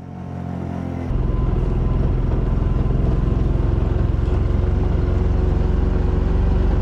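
Vehicle engine running steadily, growing louder about a second in as it pulls harder and then holding at that level.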